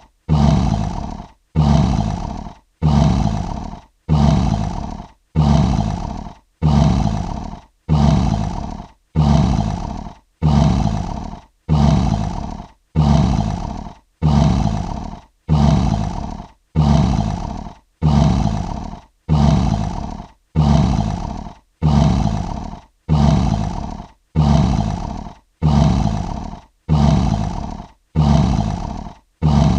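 Lion roar sound effect: one short roar repeated in a loop about every second and a half, each starting loud and fading before a brief gap.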